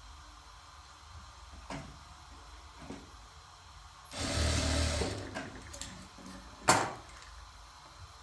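A sewing machine runs briefly for under a second, then a single sharp click comes about two seconds later. A couple of faint knocks come earlier.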